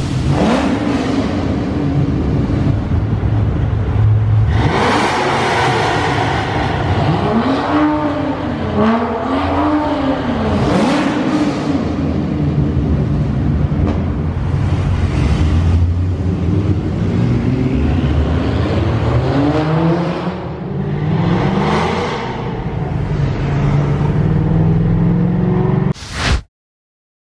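Car engines revving and accelerating, the exhaust note rising and falling in pitch several times over a loud, continuous engine sound. The sound cuts off suddenly near the end.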